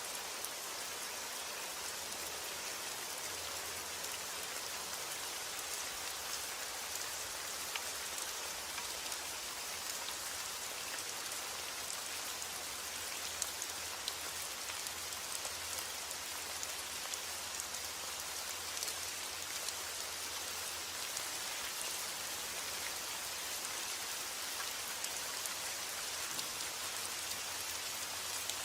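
Steady rain falling, a constant hiss with many small drop ticks on a surface.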